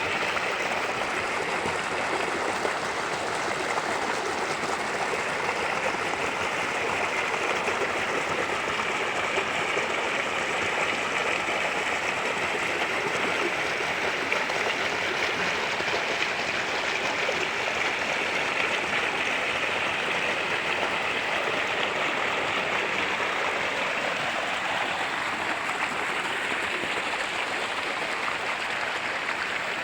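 A stream running: a steady, unbroken rush of flowing water.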